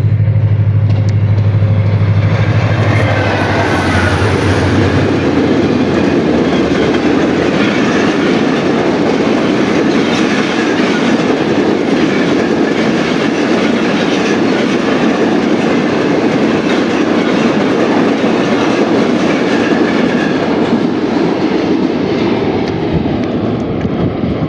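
Express passenger train passing close at high speed. The diesel locomotive's engine drones deeply for the first few seconds, then the coaches roll by with a loud, steady rush and clatter of wheels on rail.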